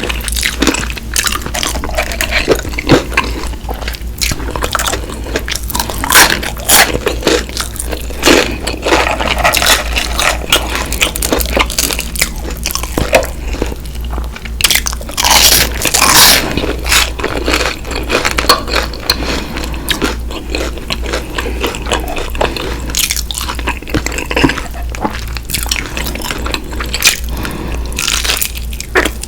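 Close-miked eating: biting into and chewing crispy fried chicken, with irregular loud crunches and wet chewing. A steady low hum runs underneath.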